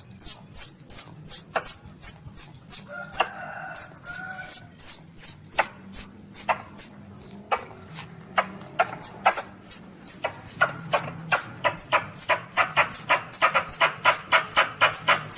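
Young Asian palm civet calling: a long run of short, shrill squeaks, each falling in pitch, about three a second, coming faster and fuller in the last few seconds.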